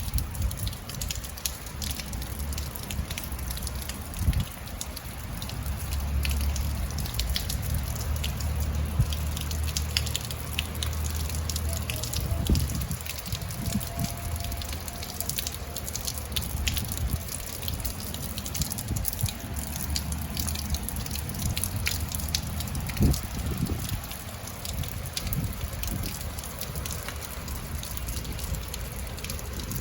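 Rain falling steadily, with many drops tapping and dripping on hard surfaces, over a low rumble.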